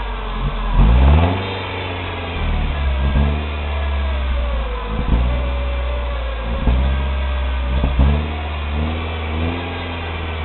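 Mercedes-Benz SLK 230 Kompressor's supercharged four-cylinder engine idling through its stock exhaust and muffler, blipped several times with the throttle. Each blip is a quick rise and fall in revs, and the first, about a second in, is the biggest.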